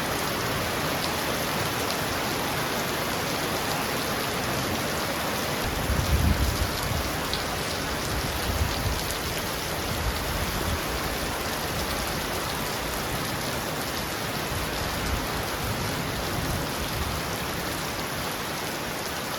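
Heavy rain pounding steadily on a roof, an even dense hiss, with a brief low rumble about six seconds in and a smaller one a couple of seconds later.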